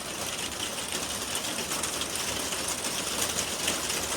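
Rain pattering, a dense run of small clicks from drops hitting close by, growing slightly heavier and louder as it goes.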